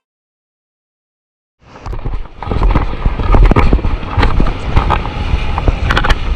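After about a second and a half of silence, loud rushing noise of wind and surf on a camera microphone, with a heavy low rumble and many sharp crackles of splashing water, from stand-up paddleboard surfing in waves.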